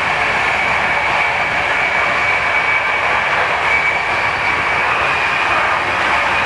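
Steady running noise of a moving passenger train heard from inside a type 156A first-class coach, with a steady high whine over the rumble.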